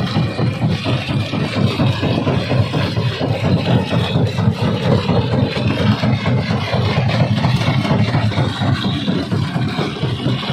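Quarry primary rock crusher running: a loud, steady, heavy mechanical rumble.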